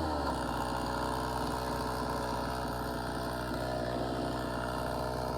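Stihl MS 290 two-stroke chainsaw idling steadily between cuts, after a brief throttle blip at the start.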